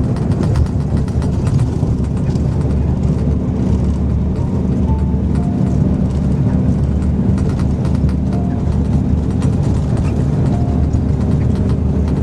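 Steady low rumble of a moving vehicle heard from inside, running without a break.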